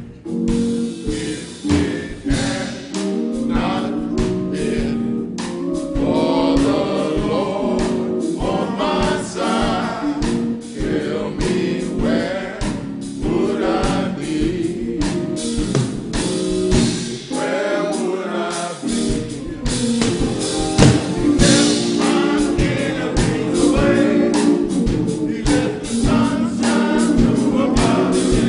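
Gospel group singing in harmony with instrumental accompaniment and a steady drum beat.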